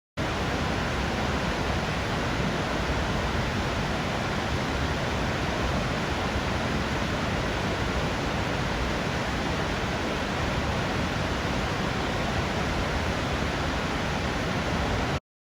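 Snoqualmie Falls waterfall: a steady, loud rush of falling water across all pitches. It starts and stops abruptly.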